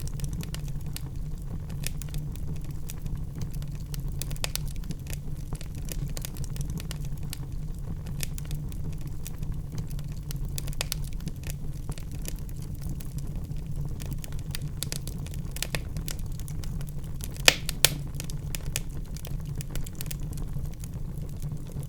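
Wood fire in a fireplace crackling, with scattered small pops over a steady low rumble, and two sharper, louder pops close together about three-quarters of the way through.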